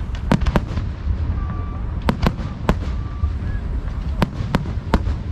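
Fireworks shells bursting overhead at close range: a string of about eight sharp bangs, some in quick pairs, over a continuous low rumble.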